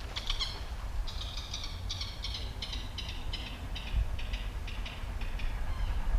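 A bird calling a rapid run of about fifteen short, harsh notes, evenly spaced at about two and a half a second, fading toward the end.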